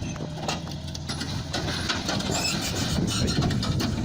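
A heavy vehicle running with a steady low engine note. About a second and a half in, it turns into a louder, rough low noise with scattered clanks and rattles.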